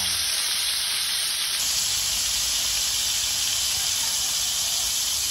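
Beef liver frying in oil in a nonstick griddle pan, a steady sizzle.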